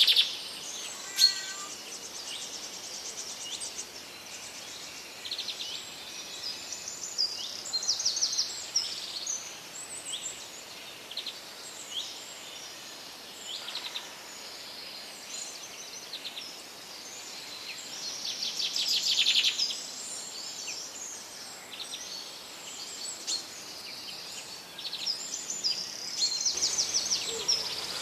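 Small birds chirping and trilling over a faint steady background hiss, with several fast trills, the loudest about two-thirds of the way through.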